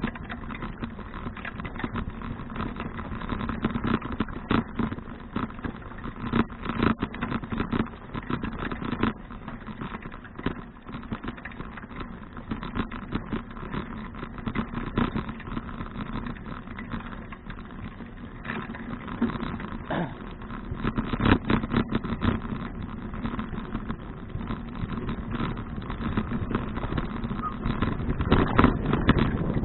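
Riding noise from a touring bicycle filmed by an action camera mounted on the bike: a steady tyre-on-road rumble with rapid rattles and knocks from the bike, growing louder near the end.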